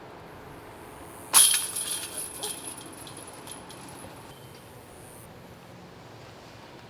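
A putted disc striking the metal chains of a disc golf basket about a second in, the chains jangling and ringing as they settle.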